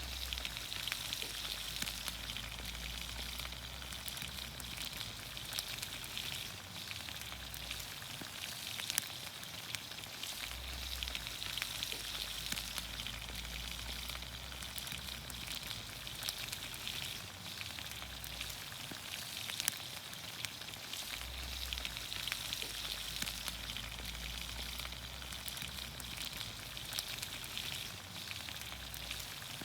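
Green beans, onions, carrots and potatoes sizzling steadily in olive oil in a pan over a campfire, with many small crackles and pops. A low rumble comes and goes underneath.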